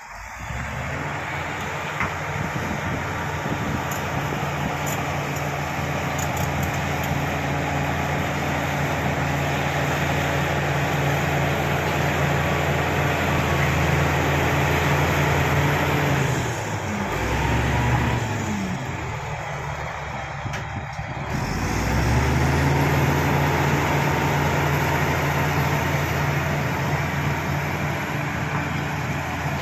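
Shantui SD16 bulldozer's diesel engine running steadily as it pushes fill, with a faint high whine alongside. A little past halfway the engine slows and drops in pitch, then picks back up to speed a few seconds later.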